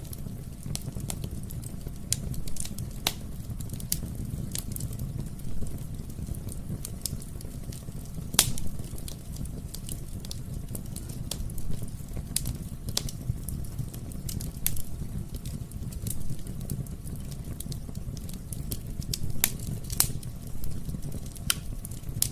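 Wood fire in a fireplace crackling: irregular sharp pops over a low steady rumble, with louder pops about eight seconds in and again near the end.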